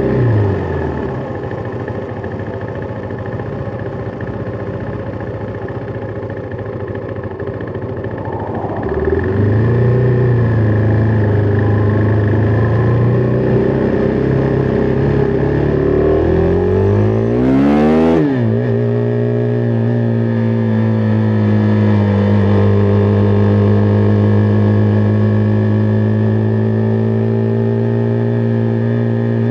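Husqvarna Vitpilen 401's single-cylinder engine on the move. The engine note falls at the start, runs low for several seconds, then picks up about nine seconds in. Around eighteen seconds it climbs steeply and drops sharply, as at a gear change, and then holds a steady cruising note to the end.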